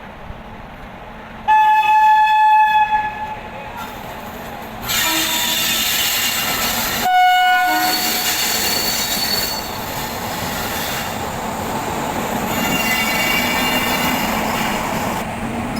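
Indian Railways WAP-7 electric locomotive sounding its horn twice: a blast of about a second and a half, then a shorter one some five seconds later. Between and after them the locomotive rolls close by with a steady rumble of wheels on rail, and the wheels squeal thinly near the end.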